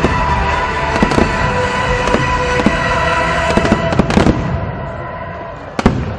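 Aerial fireworks shells bursting in quick succession with crackling, the barrage thinning out after about four seconds and ending with a last pair of sharp bangs.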